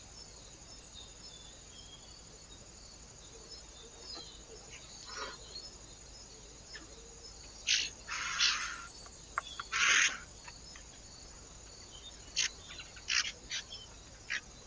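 Birds at a feeder: a scatter of short, sharp sounds over a faint steady high hiss, bunched in the second half, the loudest a little past the middle.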